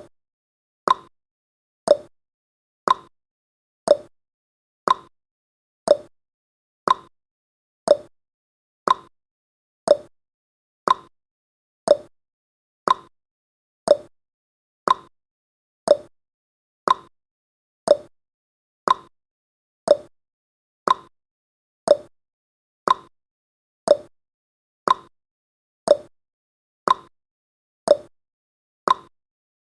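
Countdown timer's tick sound effect, one short tick each second in a steady even rhythm.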